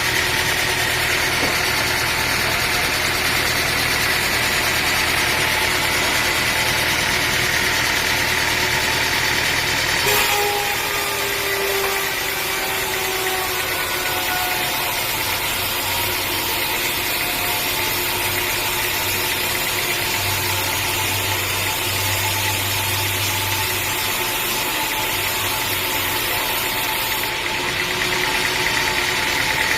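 A sawmill's engine running steadily. About ten seconds in the sound changes abruptly, and a faint tone slides down in pitch.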